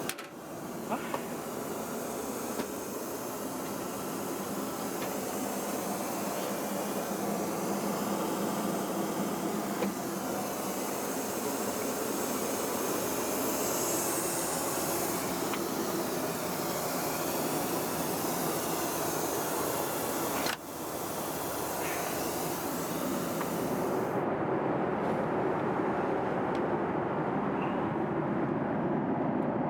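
Steady cabin noise inside a Boeing 737-800 in flight: an even rush of airflow and engine noise. It dips briefly about two-thirds of the way through and sounds duller afterwards.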